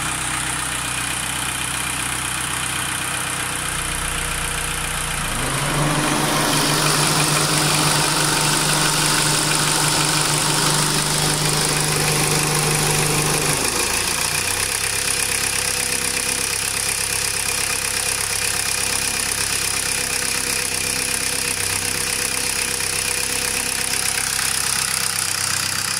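VW Golf II's 1.6 four-cylinder turbodiesel idling. About six seconds in it is raised to a higher steady speed, held for about eight seconds, then drops back to idle. A steady high hiss comes in when the revs rise and stays.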